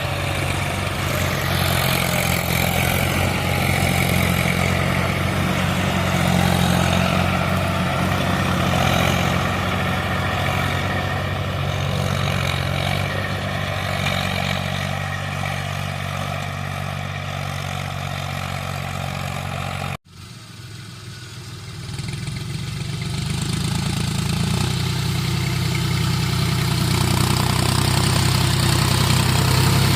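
Tractor diesel engine running steadily. About two-thirds through, the sound cuts off suddenly and briefly, then builds back up.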